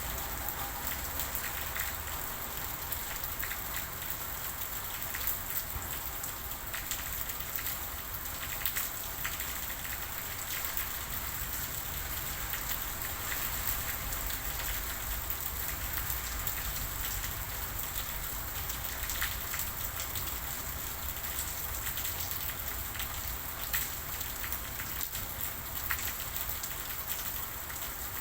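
Steady rainfall with many small drops ticking on a surface.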